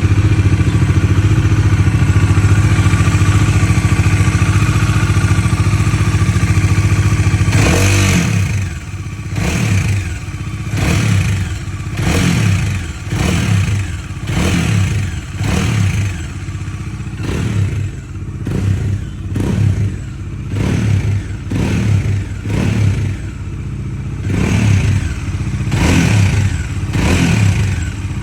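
Bajaj Dominar 400 motorcycle's single-cylinder engine held steady at raised revs, then dropping back about eight seconds in and blipped over and over, roughly once a second. The engine makes a noise that the owner cannot explain.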